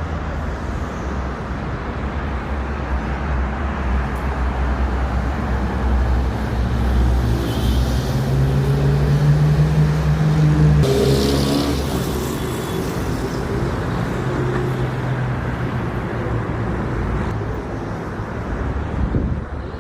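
Road traffic with a steady low rumble; about halfway through, a vehicle engine's note rises and swells, then fades.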